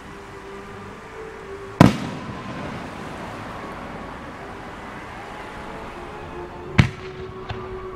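Two loud bangs of aerial firework shells about five seconds apart, the first trailing off in a rolling echo, the second followed by a smaller crack under a second later. Music plays underneath.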